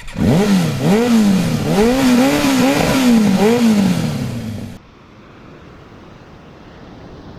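Motorized bicycle's small engine revving up and down over and over in quick swells. It cuts off abruptly about two-thirds of the way through, leaving a much fainter, even rushing noise.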